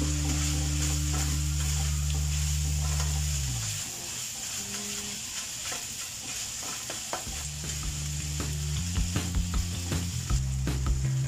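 Minced pork and crab sticks sizzling in a frying pan, with a spatula scraping and tapping against the pan as the food is stirred.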